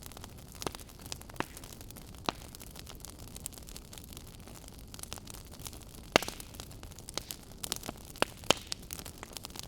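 Wood fire crackling in a fireplace: irregular sharp pops and snaps over a steady low hiss, the loudest pop about six seconds in and several more near the end.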